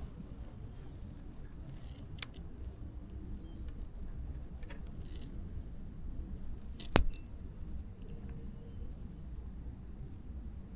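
Crickets chirping in a steady high trill over a constant low rumble, broken by a faint sharp click about two seconds in and a louder one about seven seconds in.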